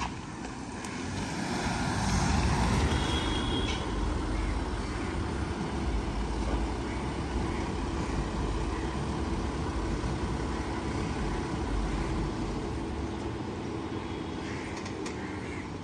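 Road traffic: a steady rumble of vehicles, growing louder about two seconds in.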